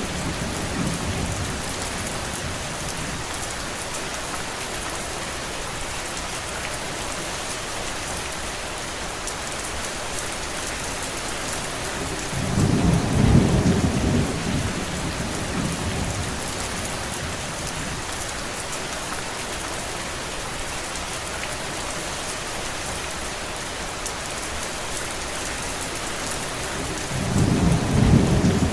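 Steady heavy rainfall, a dense even hiss. Twice, about halfway through and again near the end, a low rumble swells up for two or three seconds and fades.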